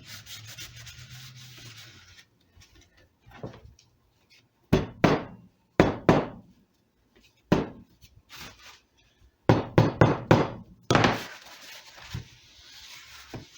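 Small hammer tapping a rosette strip down into its channel in a redwood guitar top: about nine sharp taps in small clusters, each ringing briefly, with a soft hiss before and after them.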